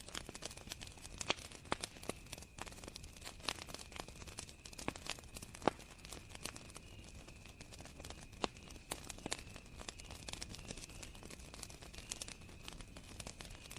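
Campfire crackling, with irregular sharp pops and snaps from the burning wood, over a steady high cricket trill.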